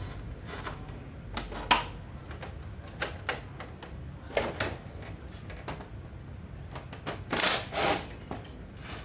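Irregular clicks and knocks of things being handled, with a longer scraping noise lasting under a second about seven seconds in, over a low steady hum.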